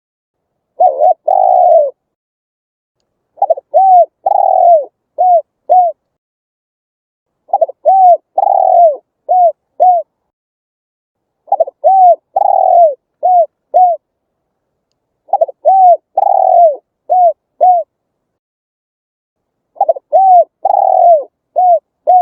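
Spotted dove cooing: the same phrase of four or five coos, the middle one longest, repeated about every four seconds with silence between.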